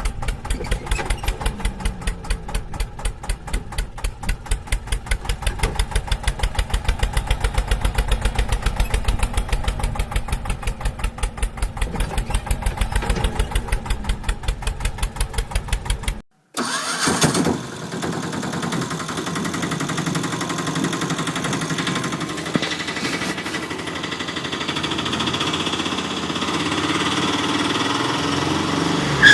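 Engine chugging in a fast, even rhythm for about sixteen seconds, then cutting off suddenly. After a brief gap, a steadier engine sound runs on with a slowly rising pitch.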